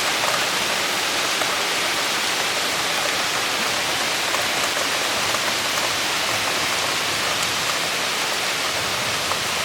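Heavy cloudburst rain pouring down steadily at an even level.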